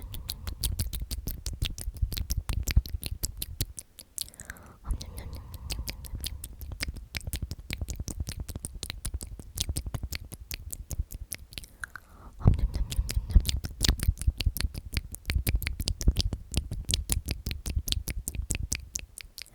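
Close-miked ASMR mouth sounds: 'omnomnom' whispered over and over as a rapid run of wet lip and tongue clicks, with short breaks about four and twelve seconds in.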